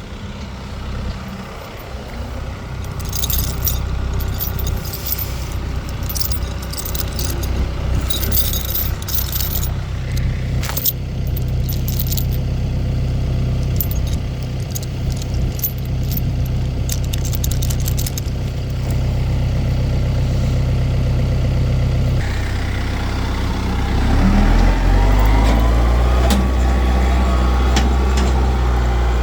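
Motor vehicle engine running steadily, with bursts of jingling, rattling clicks in the first ten seconds or so. About 22 seconds in the engine note changes and then climbs as it speeds up.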